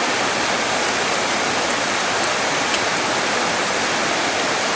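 Heavy rain falling with a steady, even hiss, with a few faint drop ticks.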